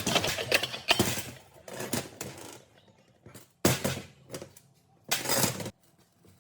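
Metal parts being handled on a workbench: irregular clinks and knocks, a sharp hit a little past halfway, and a short rasping burst near the end.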